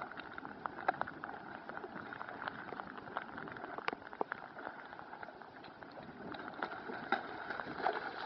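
Steady watery patter with many small irregular ticks and splashes, as of water on flooded ground.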